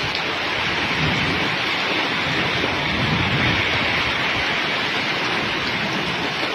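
Heavy rain pouring down in a windstorm, a steady hiss, with gusts of wind rumbling on the microphone now and then.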